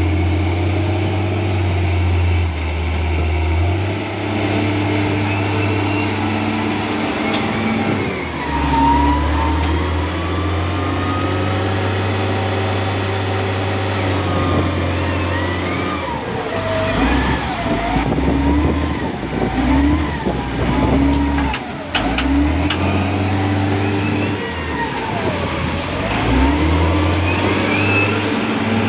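A loader's diesel engine running and changing speed as the machine works, with a whine that rises and falls in pitch, heaviest in the second half.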